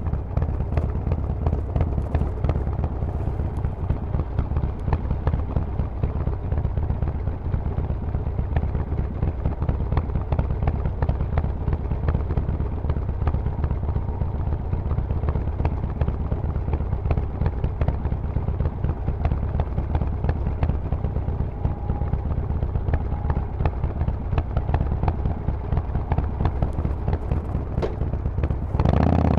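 Harley-Davidson Forty-Eight's 1200 cc air-cooled V-twin running through a Vance & Hines aftermarket exhaust: a steady, low, pulsing rumble while riding. Near the end the throttle opens and it gets sharply louder.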